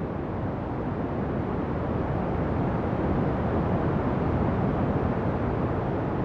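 Ocean surf: a continuous low wash of breaking waves that swells gently toward the middle and eases off again.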